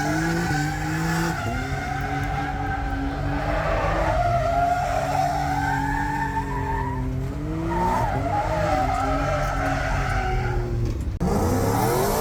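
Car burnout: the engine is held at high revs while the spinning rear tyres squeal. The engine pitch sags and climbs several times, breaks off briefly about eleven seconds in, then revs up again.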